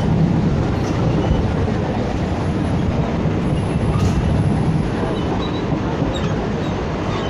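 Electric suburban local train running along the rails, heard from an open carriage doorway: a steady, loud rumble of wheels and running gear.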